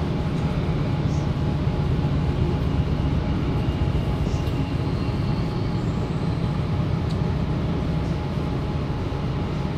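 Interior running noise of a Sydney Trains Tangara electric suburban train in motion: a steady low rumble of the carriage travelling along the track.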